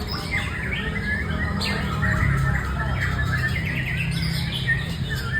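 White-rumped shama (murai batu) singing a run of quick chirps and whistled phrases over a steady low hum.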